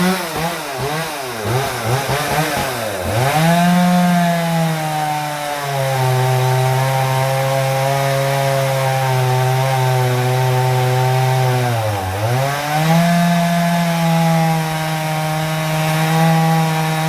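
Chainsaw cutting firewood. The engine pitch wavers at first and drops briefly twice. In between it settles lower and steady for several seconds as the chain works through the wood.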